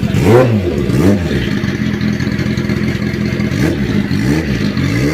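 Kawasaki ZX-10R's inline-four engine idling through an SC-Project aftermarket exhaust and being blipped: two sharp revs in the first second or so, then about three quicker blips near the end, each rising and falling back to idle.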